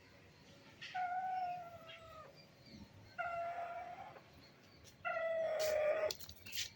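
A young pet parrot giving three long, drawn-out calls, each about a second long and sliding slightly down in pitch.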